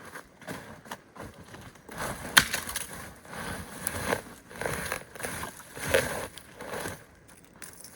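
Wood being handled: irregular rustling and crunching with sharp snaps, the loudest crack about two and a half seconds in.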